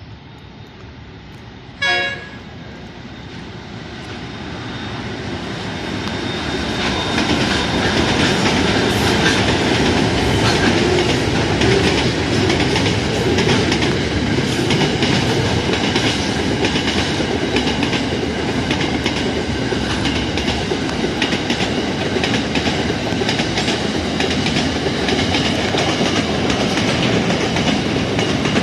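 A freight train's horn gives one short blast, then the train runs past with its empty steel wagons. It grows louder over several seconds into a steady rumble and rattle, with the clickety-clack of wheels over the rail joints and faint high ringing tones.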